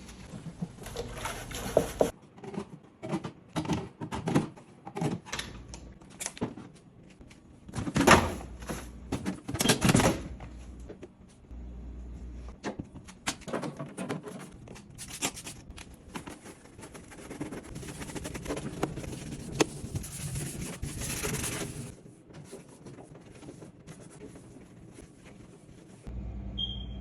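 Irregular knocks, clicks and thunks of containers, jars and shelves being handled and moved in and out of a refrigerator, with a stretch of scraping or rustling about two-thirds of the way through.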